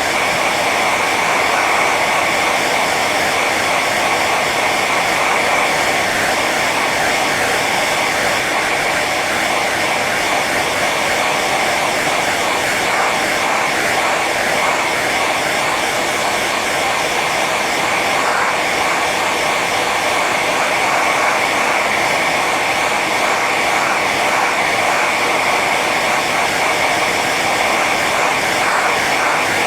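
Hair dryer running steadily on its high setting: a continuous blowing rush with a steady whine over it.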